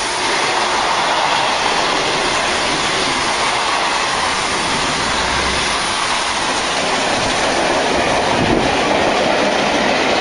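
Train passing close by: steady, loud rail and wheel noise throughout.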